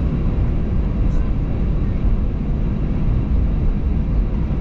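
Cabin noise of an Airbus A320 taxiing: the jet engines at taxi power make a steady low rumble, heard from inside the cabin.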